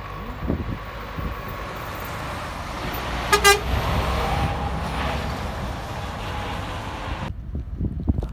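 Truck horn giving a short double toot about three seconds in, over the rumble of passing road traffic that swells as a vehicle goes by.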